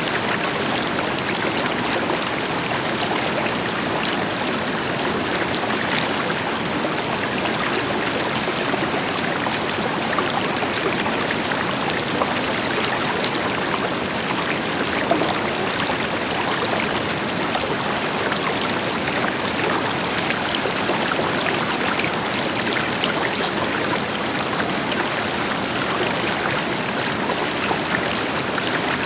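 River water flowing and splashing over rocks, a steady rushing with fine bubbling, with the deeper rush of a waterfall beneath it.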